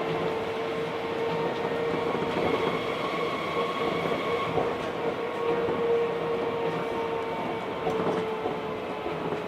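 Osaka Monorail 1000 series car running between stations, heard from inside the car. A steady motor whine with fainter higher tones sits over the rumble of its rubber tyres on the guideway beam, and the whine drops a little in pitch near the end.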